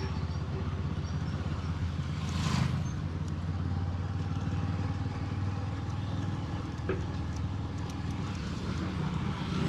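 Motorcycle engine running at a steady, low drone while riding, heard from a mic inside the rider's helmet. There is a short whoosh about two and a half seconds in.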